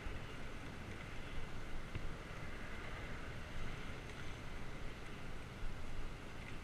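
Wind buffeting a bike-mounted GoPro's microphone while cycling: a steady low rumble and hiss, with a few faint ticks from the bike.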